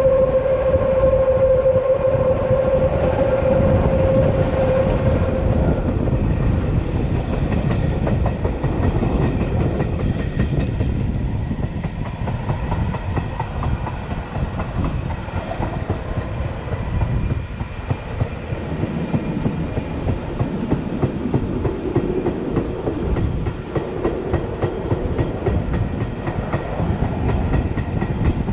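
Metre-gauge train led by an HGe 4/4 electric locomotive running along the track: a steady rumble with wheels clicking over the rail joints. A steady high tone sounds over it for about the first five seconds, then stops.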